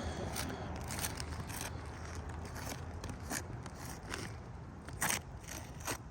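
Asphalt ridge cap shingles being pried up and pulled loose from the roof: scattered short scrapes and crackles of shingle and tar strip tearing, over a steady low rumble.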